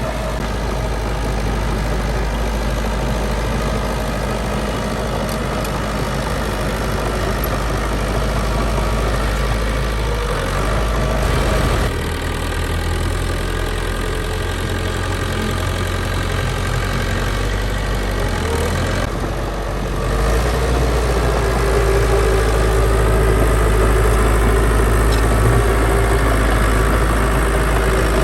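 Heavy diesel engines of construction machinery running steadily, the sound shifting about twelve seconds in and growing louder about two-thirds of the way through.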